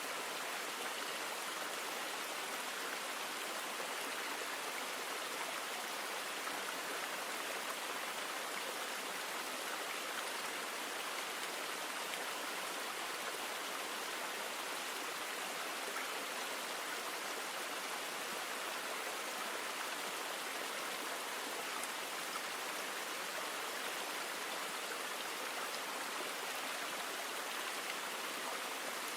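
River water flowing: a steady, even rush of moving water with no change throughout.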